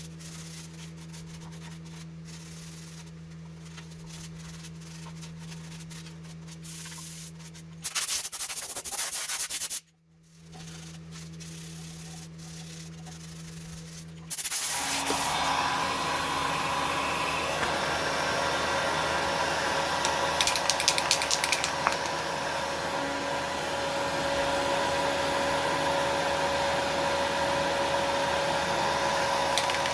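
Sanding: steady abrasive rubbing. It stops briefly about a third of the way in, then comes back much louder about halfway through and keeps going.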